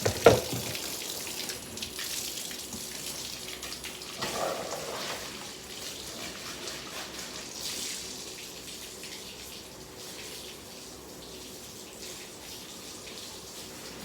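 Water running steadily, as from a tap, easing off in the second half. There is a sharp knock just after the start and a clatter about four seconds in.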